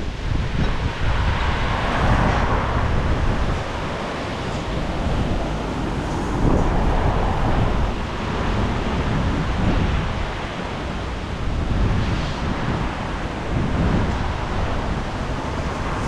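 Strong storm wind gusting and buffeting the microphone: a loud rushing that swells and eases every few seconds, with heavy low rumble.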